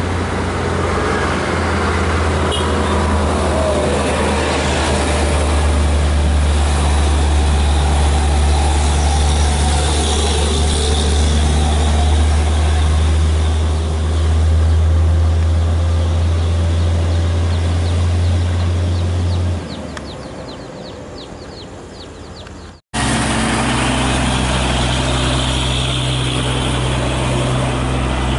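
Heavily loaded trucks' diesel engines pulling under load, a steady low drone. About two-thirds of the way through it fades. After an abrupt break, another truck's engine drone follows.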